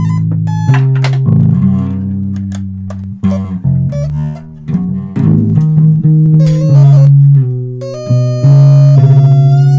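Instrumental music: plucked electric bass and guitar notes, joined near the end by a long held tone.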